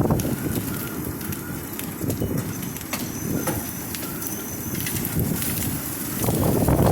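Quarter-size hail pelting down in strong wind: a dense clatter of hailstone impacts over a steady wind rush and buffeting on the microphone, with a gust swelling near the end.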